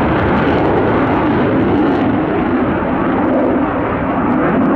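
Eurofighter Typhoon's twin EJ200 turbofan jet engines, a loud, steady roar from the aircraft in flight.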